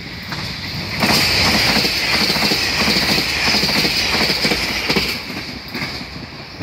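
HOT7000-series Super Hakuto diesel express train passing close by, its wheels clattering rhythmically over the rail joints with a steady high-pitched ring above them. The sound comes in loudly about a second in and eases after about five seconds as the train moves away.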